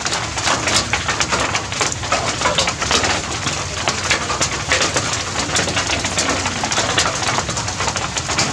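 Rain falling steadily on leaves, a constant hiss dense with small drop ticks, with soft cooing calls heard over it several times.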